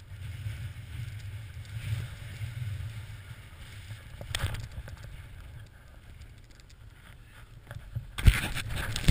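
Snowboard riding through deep fresh powder, a soft rushing swish with wind buffeting the microphone. Near the end a loud thump and a burst of scraping snow.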